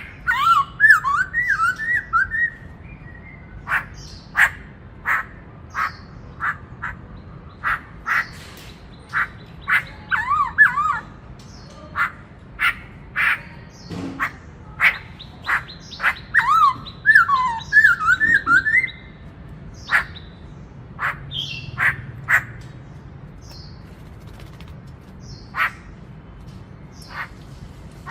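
Black-throated laughingthrush singing: loud, short, sharp notes at irregular intervals, broken three times by quick runs of warbling up-and-down whistles, with the notes thinning out in the last third.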